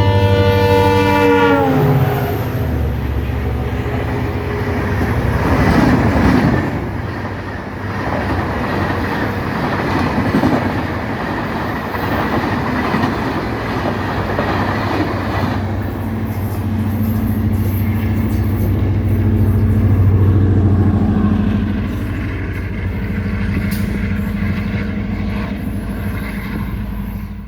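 WDP4D diesel locomotive running at speed, its EMD 710G3B V16 engine giving a steady low drone under rail and wheel noise. The locomotive's air horn sounds at the start and dies away, dropping in pitch, about two seconds in.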